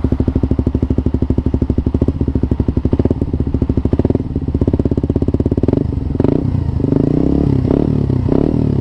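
Suzuki GSX-R150's single-cylinder engine running through an Akrapovic Purbalingga slip-on exhaust with no dB killer fitted. It idles with an even exhaust pulse, then is given short, light throttle blips: one about four seconds in and several more from about six seconds.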